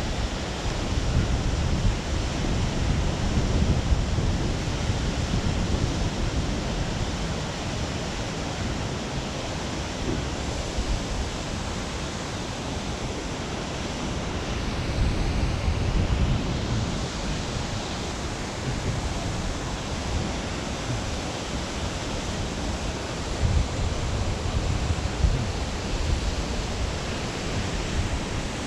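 Wind buffeting the microphone while riding: a steady rushing noise with low rumbling gusts that swell a few times.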